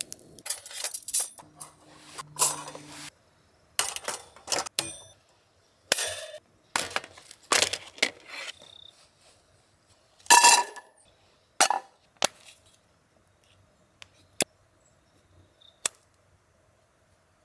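Metal parts of a campfire stand clinking, knocking and scraping as it is handled and set up, in a series of separate short bursts with a few sharp single clicks later on.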